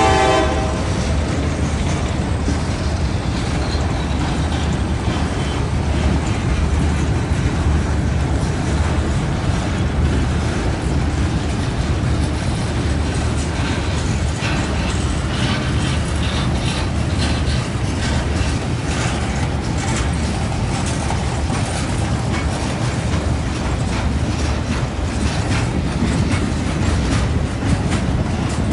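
Freight train's boxcars rolling past with a steady deep rumble and a run of clicking wheels over the rail joints. The locomotive horn's last blast cuts off right at the start.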